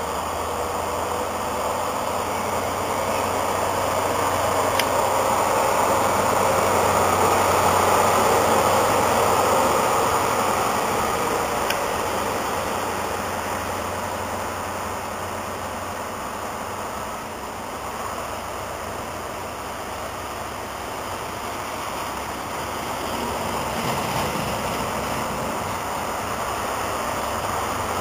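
A First Great Western HST (InterCity 125) runs past along the platform. The leading class 43 power car's diesel engine and the coaches' wheels make a steady rushing rumble, loudest about eight seconds in as the power car passes, then easing off as the Mark 3 coaches roll by.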